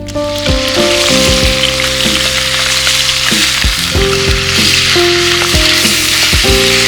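Pork ribs sizzling loudly in hot fat over a campfire: a dense, steady crackling hiss. A plucked melody of background music plays along with it.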